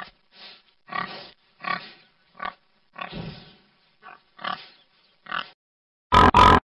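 Domestic pig grunting, a run of about ten short grunts. Near the end it is cut off by two very loud, harsh bursts of another sound.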